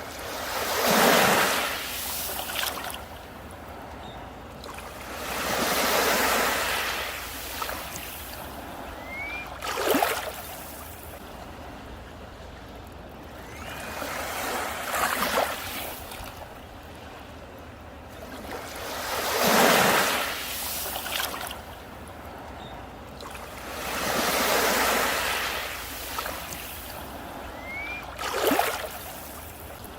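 Sea waves breaking on a beach, one swell washing in and fading every four to five seconds, a few ending in a sharper crash. A bird gives a faint short rising chirp three times.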